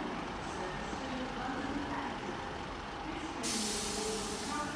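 Diesel train engine running steadily at a station, with a loud hiss of compressed air from a train's air brake system starting suddenly about three and a half seconds in and cutting off about a second later.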